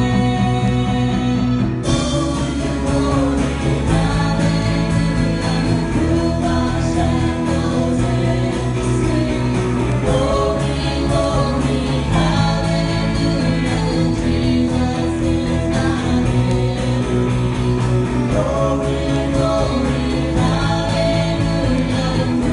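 Worship music with guitar and sung vocals over steady bass notes, with an abrupt change in the sound about two seconds in.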